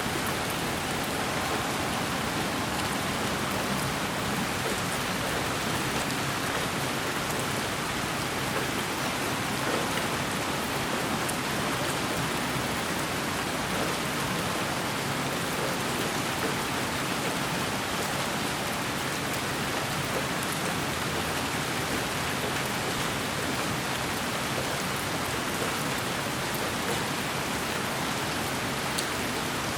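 Steady, unchanging white-noise sleep sound that sounds like heavy rain, with faint scattered ticks over an even hiss.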